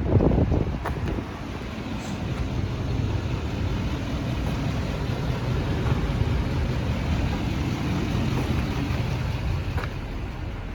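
Ford F450 truck engine running steadily, with a brief louder burst right at the start.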